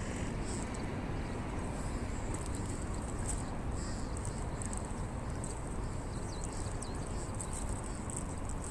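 Wood campfire burning, with scattered sharp crackles and pops over a steady noise.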